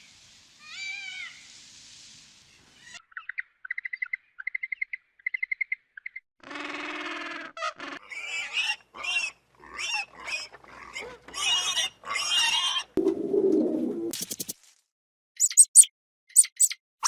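Assorted animal calls one after another: a rapid run of chirps, a drawn-out call, a string of short calls, a low rough burst, then high chirps near the end.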